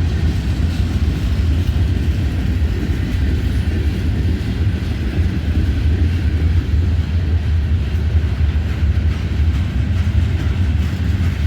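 Freight train of covered hopper cars rolling past, a steady low rumble.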